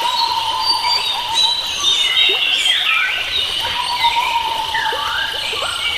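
A chorus of wild forest birds singing and calling at once: many overlapping chirps and gliding whistles over steady held high notes that fade in and out.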